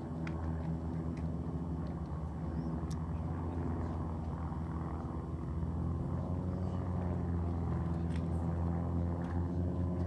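Engine running steadily: a constant, even drone that does not change in pitch, with faint scattered clicks above it.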